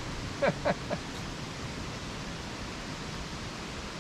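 Steady wind rushing over the microphone, with a brief bit of voice about half a second in.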